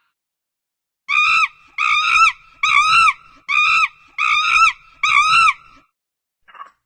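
An animal calling six times in a row, each call a short, high-pitched note that rises and falls, repeated at a steady pace of a little more than one a second.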